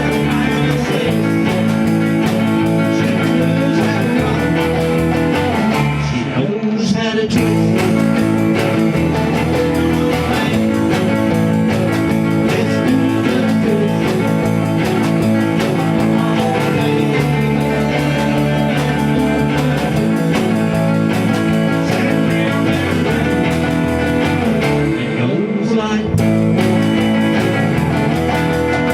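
A rock band playing a blues-rock number, guitar leading over a steady bass line. The music thins briefly about six seconds in and again near the end.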